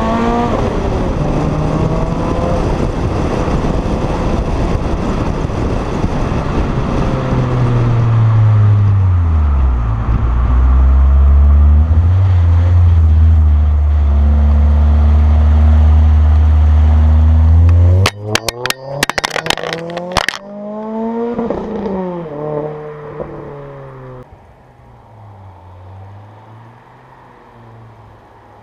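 Renault Clio III RS's 2.0-litre four-cylinder through a K-tec KTR aftermarket exhaust, driven hard: the engine runs under load, its pitch falls about eight seconds in, then holds a steady low drone. Around eighteen seconds in comes a two-second cluster of sharp cracks, followed by quick revs rising and falling and then quieter running.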